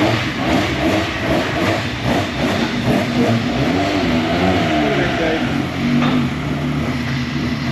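Race pickup truck engines running and being revved, their pitch rising and falling repeatedly with several engines overlapping.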